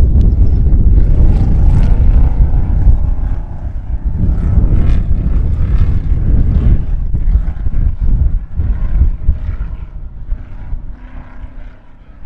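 A vehicle engine running past with a loud low rumble and wind on the microphone, fading away toward the end.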